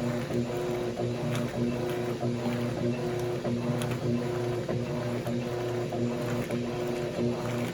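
Electrolux washing machines running a wash cycle: a steady motor hum with tones that drop out briefly now and then, and light scattered clicks.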